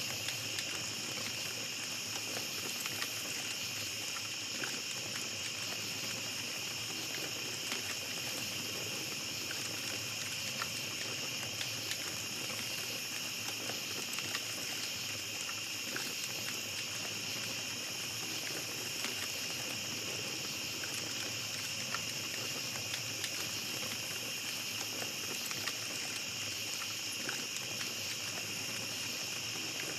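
Small campfire crackling with scattered light pops over a steady, unbroken chorus of night insects.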